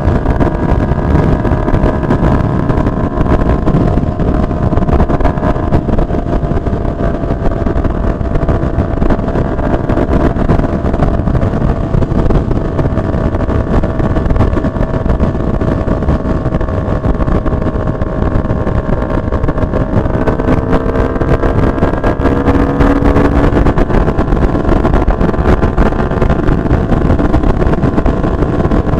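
Motorcycle cruising at expressway speed: wind rushing over the microphone under a steady engine note, which sags slightly and then climbs again about twenty seconds in.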